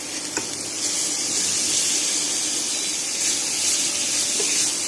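Sprouted moong mixture sizzling in hot oil in a pan as it is stirred, a steady hiss that grows a little louder about a second in, with a light click of the utensil on the pan just after the start.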